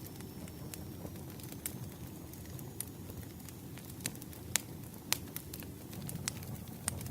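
Campfire crackling: a steady low rumble of burning wood with sharp pops and snaps scattered through, the loudest about four and a half seconds in.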